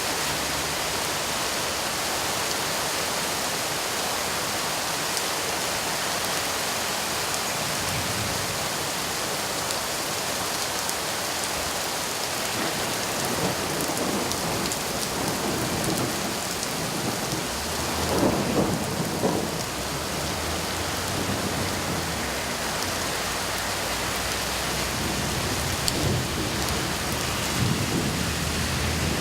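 Steady rain hissing throughout while thunder rumbles, building to its loudest roll about two-thirds of the way through, with smaller rumbles near the end.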